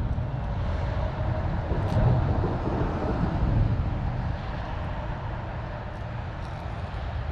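Steady low rumble of road traffic from a nearby highway, with a few faint ticks over it.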